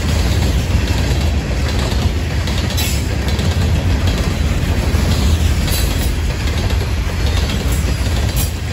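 Freight train of open-top hopper cars rolling past at close range: a steady heavy rumble of steel wheels on the rails, with a few faint clacks as the wheels cross the rail joints.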